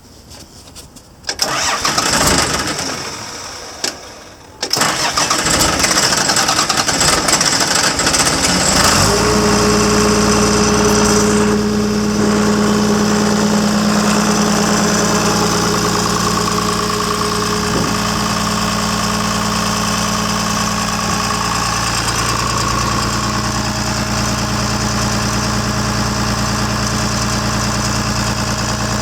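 Caterpillar D5C diesel engine being started: a loud burst about a second in that dies away, a second start near five seconds that catches, then the engine settles into a steady idle from about nine seconds in.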